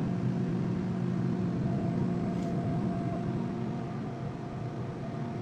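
Diesel engine of a heavy forestry machine running steadily with a low, even drone; slightly quieter about four seconds in.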